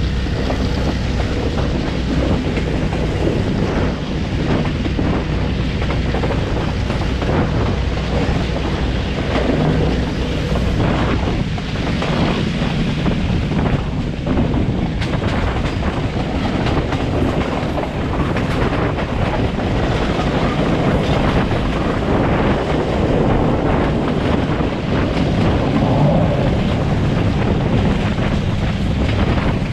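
Passenger train running along the track, heard from on board: a steady rumble of wheels on rails with frequent clicks and rattles, and wind buffeting the microphone.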